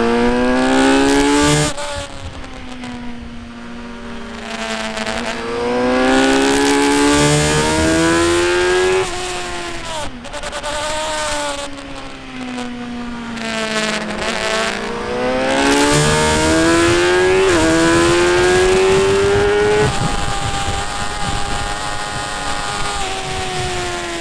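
Motorcycle engine at racing speed, revving up through the gears in long rising surges with sharp pitch drops at the shifts, then falling away as it slows, three times over.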